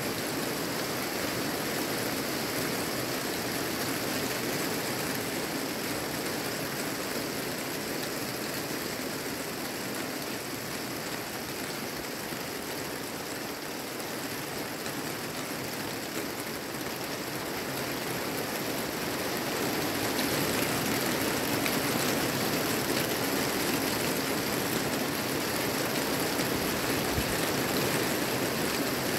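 Steady rain falling on a garden and its trees, an even hiss that grows a little louder about two-thirds of the way through.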